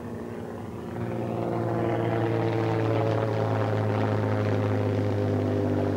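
Avro Tutor biplane's seven-cylinder radial engine and propeller running. It grows louder about a second in, then holds steady while drifting slightly lower in pitch as the aircraft passes.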